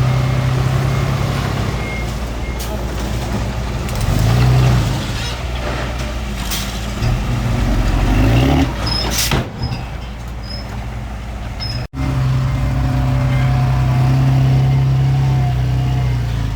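Heavy diesel engine of earthmoving machinery (bulldozer or dump truck) running under load, revving up and down a few times, with a short sharp hiss about nine seconds in. The sound cuts out for an instant near twelve seconds, then the engine runs on steadily.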